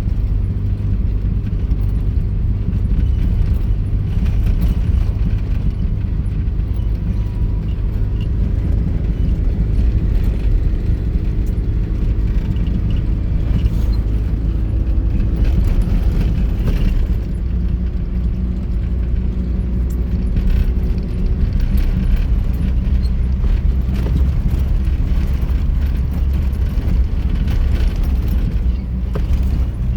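Vehicle driving off-road: a steady low rumble of engine and tyres, with scattered light rattles.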